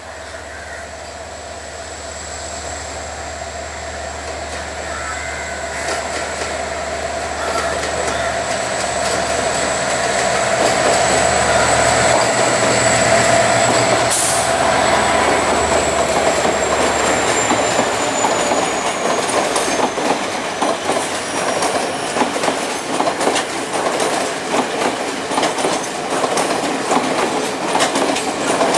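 Diesel-hauled passenger train approaching and passing close by, the locomotive's engine growing steadily louder over the first ten seconds or so. A thin high whine falls in pitch as the locomotive goes by, then the coaches roll past with a rapid clickety-clack of wheels over the rail joints.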